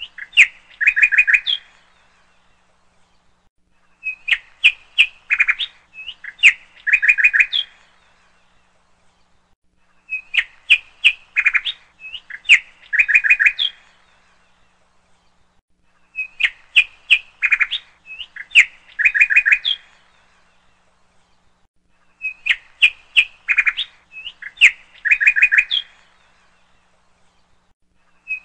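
Bird chirping: a phrase of quick, high chirps and short trills, lasting about four seconds, that repeats identically about every six seconds like a looped recording.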